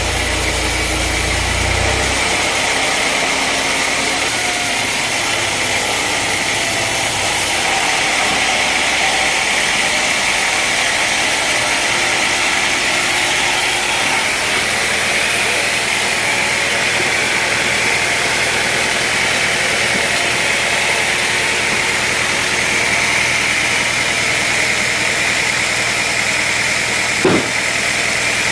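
Sawmill machinery running steadily: engine noise with a constant high whine. A deep rumble drops out about two seconds in, and there is a single short knock near the end.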